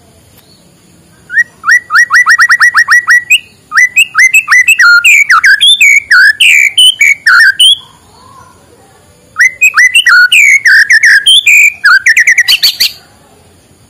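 White-rumped shama singing loud, clear whistled phrases. It opens with a run of quick repeated notes, then varied rising and falling phrases. After a short pause about eight seconds in, a second phrase ends in a fast trill.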